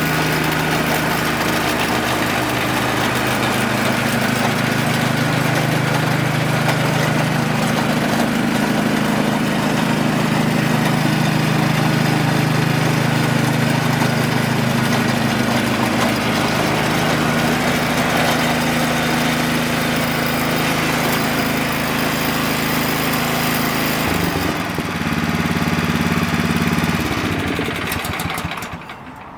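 Honda HSS760n snowblower's 5.8 hp single-cylinder gasoline engine running steadily, its speed shifting slightly a couple of times, then shutting off near the end.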